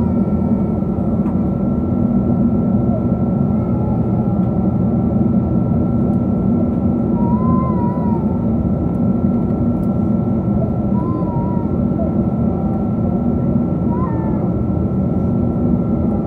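Steady roar of a Boeing 777-200 heard inside the cabin from a window seat: engine and airflow noise with a steady high tone over it. Faint short wavering squeals come every few seconds.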